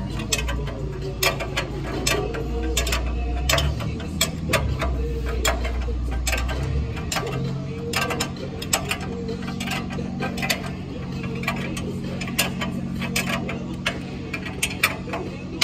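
Ratchet spanner clicking as suspension bolts are tightened, with sharp metallic clicks a few times a second and some pauses between. A steady low hum runs underneath.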